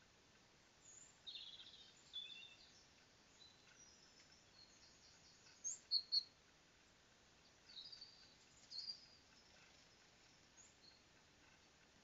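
Birds chirping in short, high-pitched calls and phrases, loudest in a quick run of three notes about halfway through, over a faint steady hiss.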